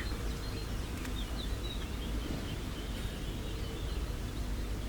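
Steady low outdoor rumble with a few faint, short, high bird chirps about a second in.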